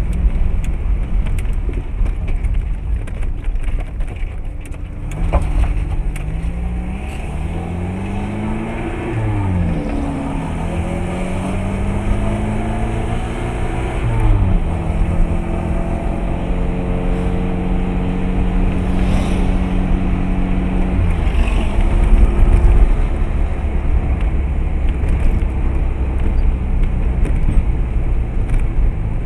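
Car engine and road rumble heard from inside the moving car. The engine note climbs several times as it pulls through the gears in the first half, holds steady for several seconds, then falls away about three-quarters of the way in.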